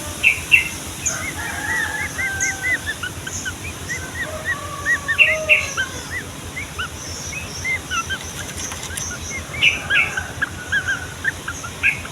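Yellow-vented bulbuls singing and chattering: a busy run of short, bubbling chirps and slurred whistles from several birds at once, overlapping throughout.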